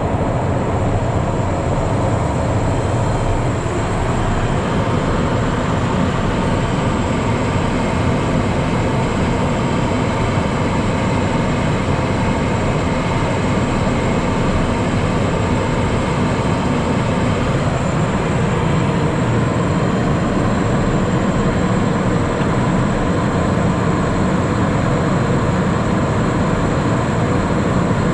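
Steady cabin noise of a Cessna Citation Mustang business jet in flight, heard inside the cockpit: a constant rush of airflow with a thin high whine from its turbofan engines.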